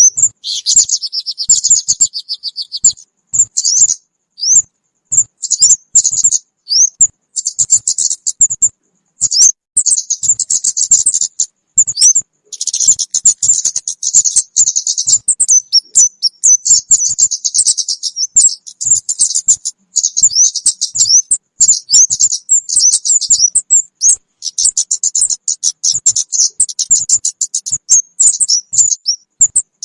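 Recorded lure calls of the kemade bird: rapid, high-pitched chirps and short trills in bursts with brief silent breaks.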